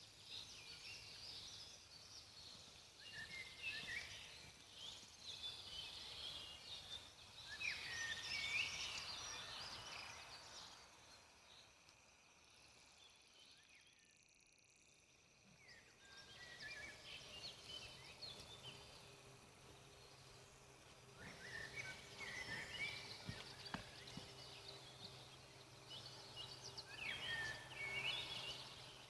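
Faint birdsong in a forest: scattered chirps and short warbled calls that come and go, thinning out around the middle and picking up again in the second half.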